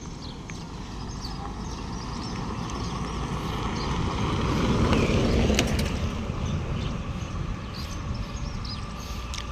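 Isuzu FTR 240 truck passing by, growing louder to a peak about halfway through and then fading away.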